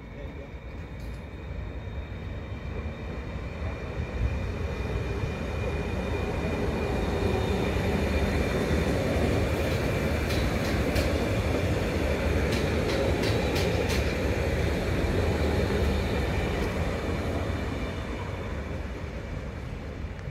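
EN75 electric multiple unit (a Stadler FLIRT) passing on the track: its running noise grows louder, holds as it goes by, then fades as it draws away. A few sharp clacks come from the wheels in the middle of the pass.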